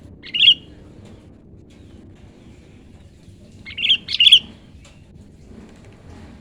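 Sooty-headed bulbul (kutilang) calling: one short, bright note, then about three seconds later a quick run of three notes.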